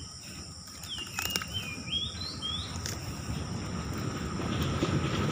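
A bird calls a short run of sliding whistled notes about a second in, over a steady high-pitched insect drone. A low rustling noise grows louder toward the end.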